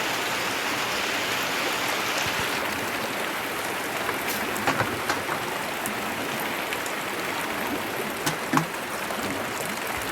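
Heavy rain pouring steadily, with a few sharper clicks of drops striking around the middle and near the end.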